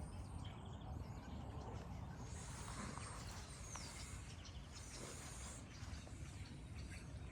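Birds calling outdoors: scattered chirps, two bright high calls about two and five seconds in, and a quick downward-sweeping call between them, over a steady low rumble.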